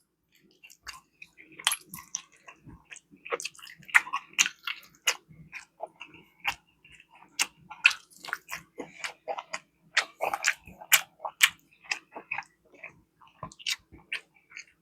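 A person chewing and smacking on barbecue chicken close to the microphone: a run of irregular wet clicks and lip smacks.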